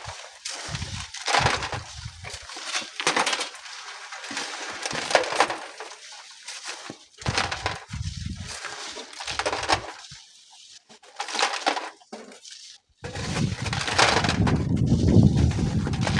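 Loose sand and gravel crunching and hissing in uneven bursts as it is worked by hand at a manual sand mine. Near the end, strong wind buffets the microphone.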